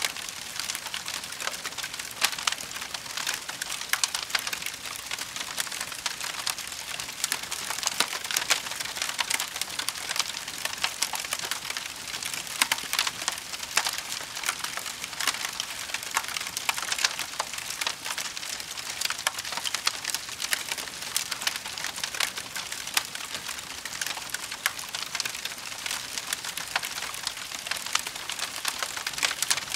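Campfire burning with dense, continuous crackling and frequent sharp pops of burning wood.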